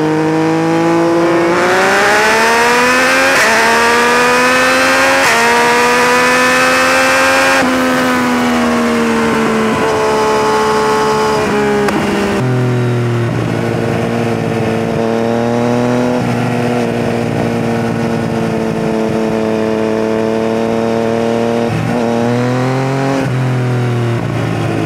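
Inline-three motorcycle engine at high speed, pulling hard with its pitch climbing for the first several seconds, then easing off and settling into a steady high-speed run for the rest.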